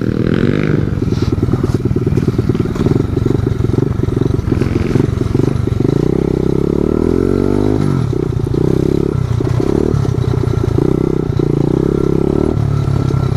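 Small single-cylinder pit bike engine running under way, its revs rising and falling with the throttle. It climbs for about two seconds and drops off sharply about eight seconds in.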